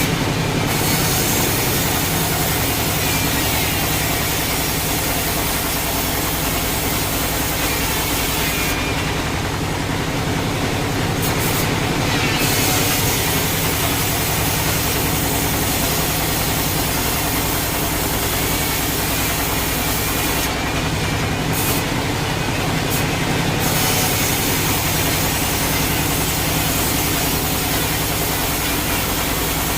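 Sawmill machinery running steadily, with a saw cutting through a log. The high hiss of the cut drops away briefly twice.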